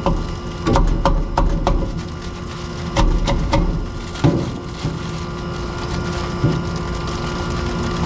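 A run of sharp clicks and knocks, grouped in the first half, over a steady machine hum: handling noise as ice is packed against a hot air-conditioner compressor to cool it down and reset its thermal switch.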